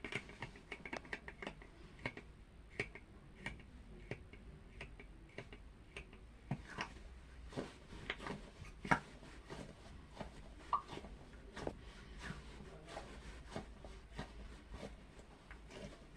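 Faint, irregular clicking and ticking, a few clicks a second, a little louder around the middle.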